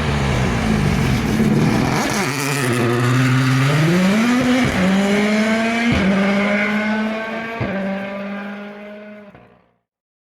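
Rally car engine under hard acceleration: the engine note climbs, drops sharply, then holds high with a few sharp cracks. It fades away and then cuts off suddenly to silence near the end.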